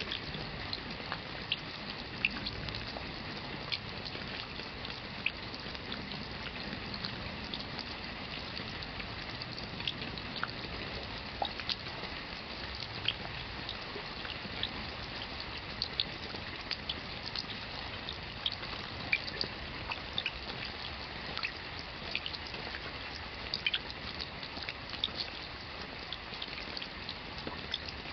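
Steady rain with many individual water drops splashing, heard as scattered close ticks over an even hiss.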